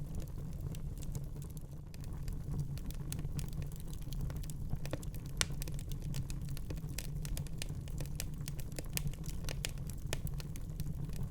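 Fire crackling in a fireplace: irregular sharp crackles and pops over a steady low rumble.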